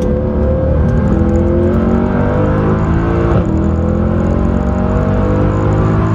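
Mercedes C63 AMG's 6.2-litre V8 pulling hard under acceleration, heard from inside the cabin. Its pitch rises steadily, drops sharply at an upshift about three and a half seconds in, then climbs again.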